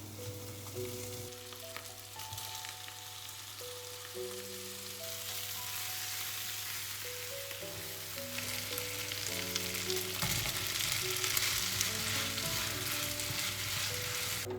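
Food sizzling as it fries in a pan, the hiss growing louder from about halfway through, with soft piano music underneath.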